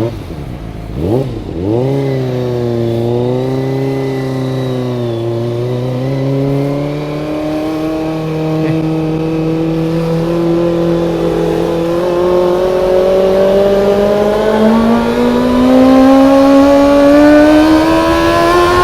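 Kawasaki ZX-25R's 249 cc inline-four engine under way: a quick rev up and back down about a second in, then a steady note that slowly climbs in pitch and gets louder as it pulls through a gear.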